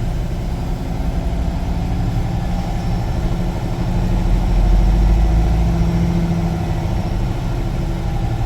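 Semi-truck's diesel engine running at low speed, heard from inside the cab, a steady low rumble that grows a little louder about halfway through.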